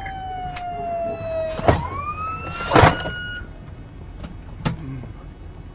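Police car siren wailing: its tone falls, then sweeps back up about halfway through the first two seconds, holds, and cuts off suddenly. Two short loud bursts of noise cut across it, and two sharp clicks follow near the end.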